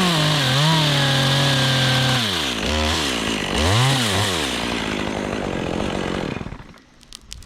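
Two-stroke chainsaw running at high revs and cutting through Leyland cypress wood, its pitch sagging under load, then a short rev before it drops away about six and a half seconds in. Light crackling and clicking follow near the end.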